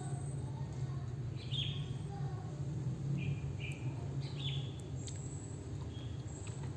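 Short, high bird chirps, a cluster of them in the first half and a few more near the end, over a steady low hum.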